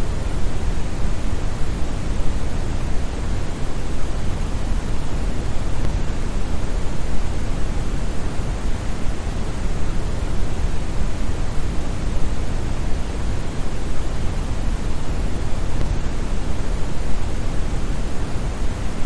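Steady, unbroken brown noise: a deep, even hiss heaviest in the bass and falling off toward the treble, like a distant waterfall.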